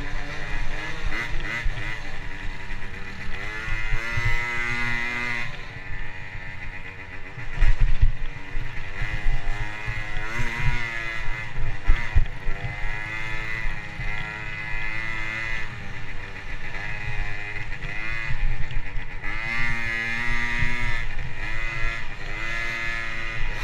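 Motocross dirt bike being ridden, its engine revving up and falling back over and over through gear changes, with wind rumble on the microphone. A couple of heavy knocks come through, about eight and twelve seconds in.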